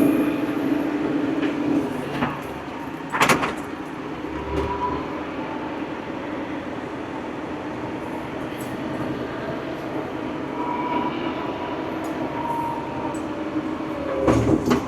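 Old farm tractor's engine running steadily, a little louder in the first second or so, with a sharp knock about three seconds in and another near the end.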